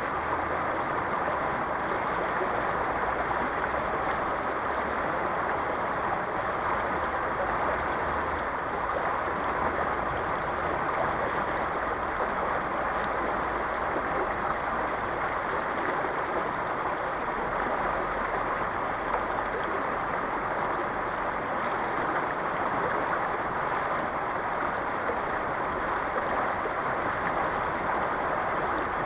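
Strong river current flowing fast: a steady, even rush of water with no breaks or changes.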